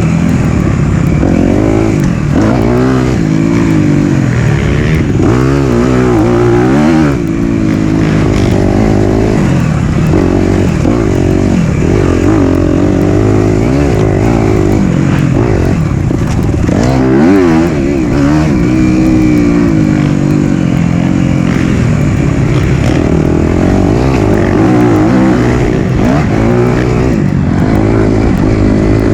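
Single-cylinder four-stroke dirt bike engine revving up and falling back over and over as the bike is ridden along a trail, the throttle opening and closing every second or two.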